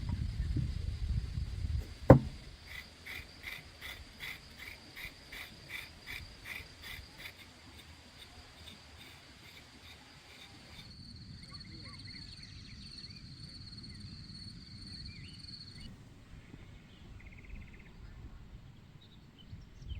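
Outdoor ambience with a steady high-pitched drone, like an insect, throughout. A single sharp knock comes about two seconds in, followed by a run of short, even strokes at about two a second for several seconds.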